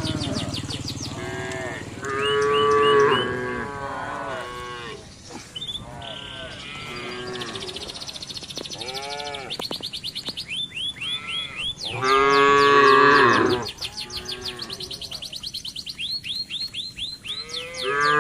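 Cattle mooing, with two loud, drawn-out moos about two seconds in and again about twelve seconds in, and fainter calls between them. Rapid, repeated high chirping runs under the moos.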